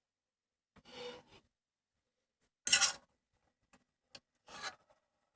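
A utensil scraping and stirring through a pan of chicken and rice, in three short rasping strokes just under two seconds apart, the middle one loudest.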